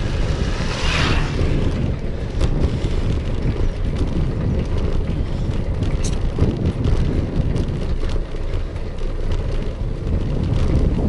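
Wind buffeting the microphone while riding, a steady low rumble mixed with road noise. A brief hiss comes about a second in.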